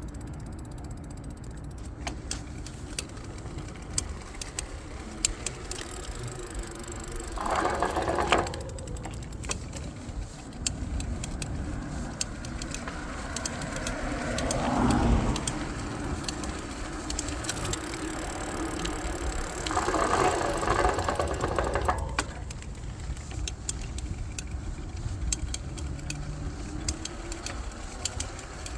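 Tektro Auriga hydraulic disc brakes on a 2015 Specialized Rockhopper Comp 29er making repeated sharp pinging ticks, an unexplained noise from the brakes. Three longer noisy stretches of a second or two come about a quarter, halfway and three quarters of the way through.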